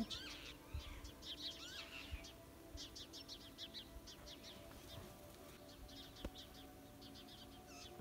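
Small birds chirping and twittering, with a quick run of rapid chirps about three seconds in, over a faint steady hum.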